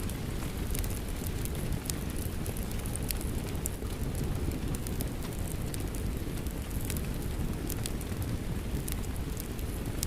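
Steady rain mixed with a crackling fireplace: an even, low rumble of noise under frequent sharp, irregular crackles and pops.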